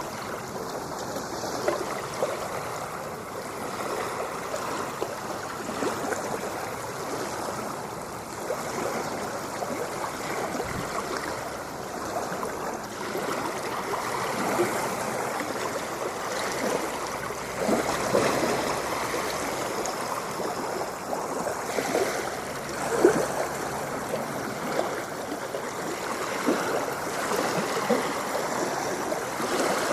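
Ocean water lapping and gurgling: a steady wash with many small splashes, one louder splash about 23 seconds in.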